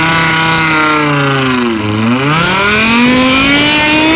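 Car engine revving hard and held at high revs; the revs drop about two seconds in, then climb back up and hold.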